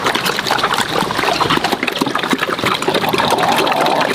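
Water gushing and splashing steadily, with many small irregular splashes.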